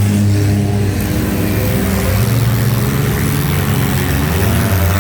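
Junk race cars' engines running hard on a dirt track, the engine note climbing about two seconds in.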